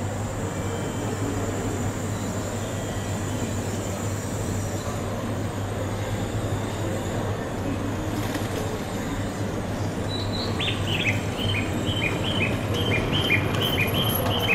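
E7/W7-series Shinkansen train pulling slowly into the station: a steady low rumble and hum that grows a little louder near the end. Quick high chirps repeat over the last few seconds.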